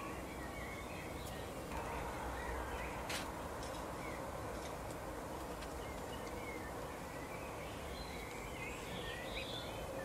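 Short high bird chirps scattered over a steady background hiss, with a few sharp clicks of European goldfinches cracking seeds at a feeder; the loudest click comes about three seconds in.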